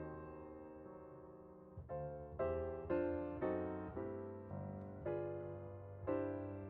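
Background music on a piano or electric piano: a chord rings out and fades, then notes are struck at an even pace, each one decaying.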